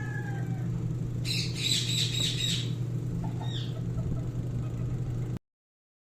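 Indian ringneck parrot squawking: a harsh screech about a second in, lasting a second and a half, followed by a couple of short chirps. A steady low hum runs underneath, and the sound stops abruptly near the end.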